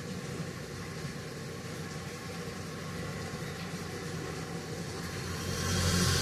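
Steady rain falling, a continuous hiss of drops, swelling louder near the end.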